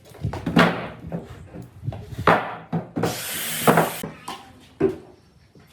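Pieces of wood being handled and knocked together, with several sharp knocks spread over a few seconds. About three seconds in comes a harsh scrape lasting about a second.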